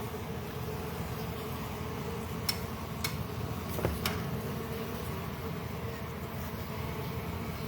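Honey bee colony buzzing steadily from the opened hive, a dense continuous hum. A few brief knocks sound in the middle.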